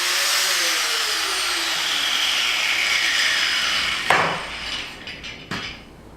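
Power tool cutting, its pitch slowly falling as it works, stopping about four seconds in; a sharp knock and a couple of clanks follow.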